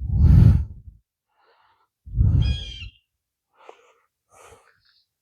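Two heavy breaths or sighs close to the microphone, each about a second long and about two seconds apart, with a couple of faint short sounds after them.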